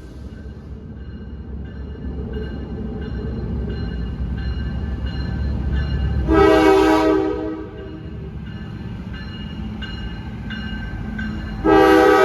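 Diesel locomotive air horn sounding a blast about six seconds in and another starting near the end, over the low rumble of an approaching train that grows steadily louder.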